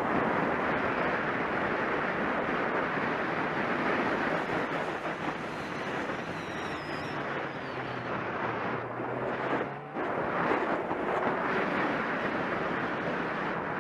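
Steady rushing noise of a moving vehicle, with road and wind noise on the microphone; it drops away briefly about ten seconds in, then carries on.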